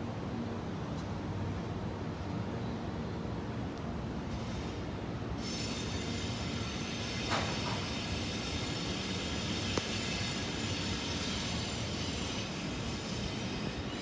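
Freight train running on the rails with a steady rumble; about five seconds in, a high-pitched whine joins and holds.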